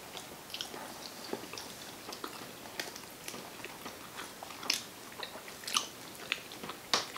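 People chewing mouthfuls of sushi rolls close to the microphone: soft wet chewing with many short, scattered clicks, a few of them sharper and louder.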